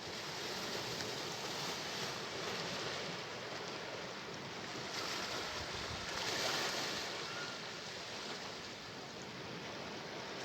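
Sea waves washing on the shore, a steady surf hiss that swells and eases, with a louder wash about six seconds in.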